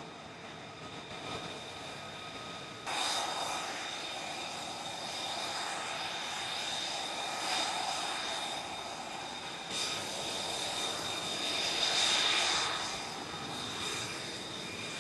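Aircraft turbine engine running, a steady whine of high tones over a wash of jet noise. It gets suddenly louder about three seconds in and swells to its loudest near the end.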